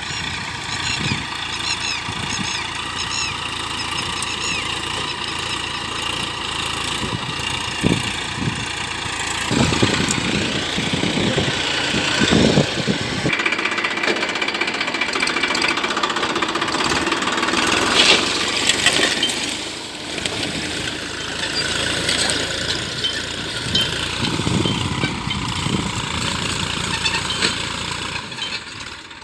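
Tractor engine running steadily, its sound getting louder and changing in character about ten seconds in.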